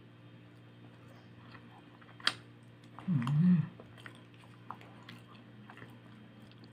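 Close-up chewing and biting of cooked sweet potato, soft and quiet, with a sharp click about two seconds in. About three seconds in comes a brief low hummed vocal sound of about half a second, the loudest thing here.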